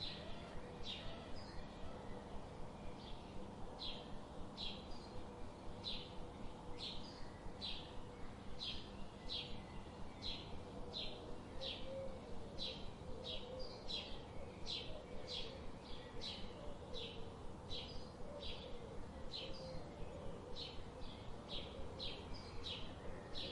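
A bird chirping over and over, short high chirps one or two a second, with fainter low wavering bird calls underneath.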